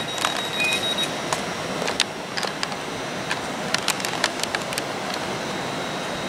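GWR Class 800 train pulling slowly into the platform: steady running noise with scattered sharp clicks, and a thin high tone that stops about a second in.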